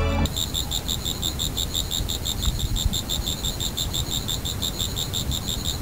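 Crickets chirping in a steady, rapid, even rhythm, a night-time ambience over a low rumble. Background music cuts off just after the start.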